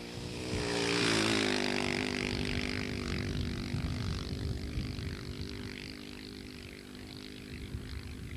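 Husqvarna 610 dirt bike's single-cylinder four-stroke engine passing by. It is loudest about a second in, then its note drops and fades as it moves away, with a hiss above it.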